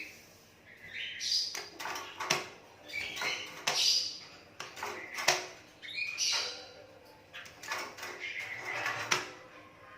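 Young hand-fed Asian pied starling (jalak suren) giving a string of harsh, noisy calls, about a dozen over ten seconds, with sharp clicks in between.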